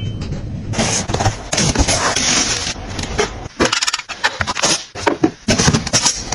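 Rustling and clatter of items and packaging being handled and put away, with irregular crinkly bursts and sharp clicks and knocks.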